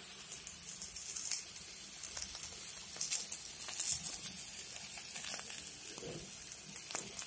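Cauliflower florets sizzling in a little hot oil in a kadai: a steady hiss with scattered small crackles and pops.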